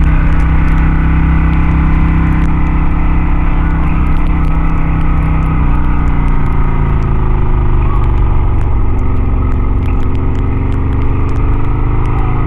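Harley-Davidson motorcycle engine running steadily and loudly. Its note steps down a couple of times in the first half, then wavers up and down as the engine speed changes.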